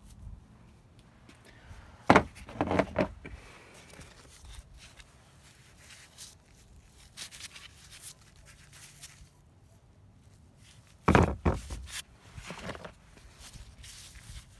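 Knocks and thumps, two louder clattering clusters about two seconds in and about eleven seconds in, with faint scattered clicks between.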